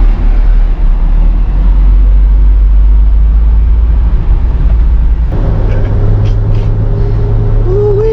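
Motor vehicle running: a loud, steady low rumble whose pitch steps up about five seconds in.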